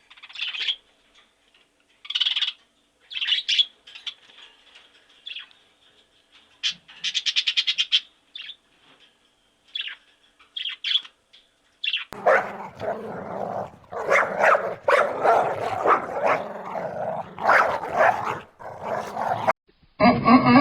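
A dog yelping and barking. For about twelve seconds there are scattered short high yelps, one of them a quick stuttering run. Then the barking turns loud and almost continuous, and it cuts off shortly before the end.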